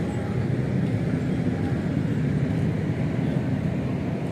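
Steady low rumbling background noise with no distinct events, like an engine or machinery running at a distance.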